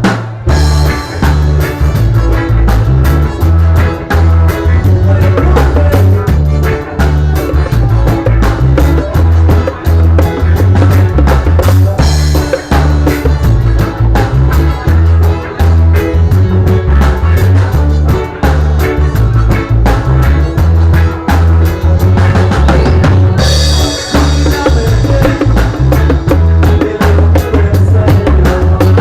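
Live band playing loud music, a drum kit keeping a busy beat over a heavy bass line, with cymbals coming in brighter about three quarters of the way through.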